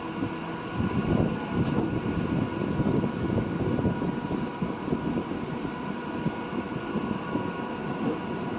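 A train passing on the track, its wheels rumbling and clattering over the rails, with a thin steady whine above the rumble.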